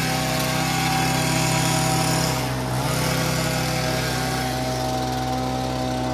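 Lawn mower engine running steadily, with a brief dip and change in its note about two and a half seconds in.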